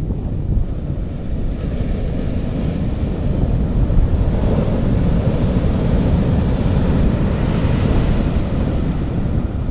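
Sea waves on a beach, one wave's hissing wash swelling about two seconds in and easing off near the end, over a constant low rumble of wind buffeting the microphone.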